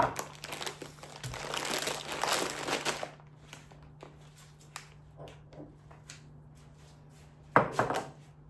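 Plastic grocery bag crinkling and rustling for about three seconds as shopping is taken out of it, then quieter handling with small ticks, and a short loud clatter about a second before the end.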